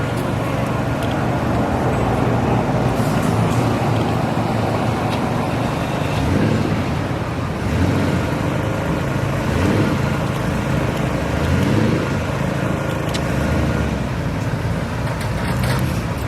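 Classic supercar engines running at low speed as the cars pull away, with a few light revs that rise and fall partway through.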